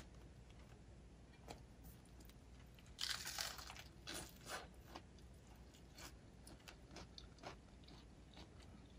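Faint biting and chewing of a rice-paper roll holding grilled pork sausage and crispy fried tiny egg rolls: a crunchy bite about three seconds in, then scattered soft crunches of chewing.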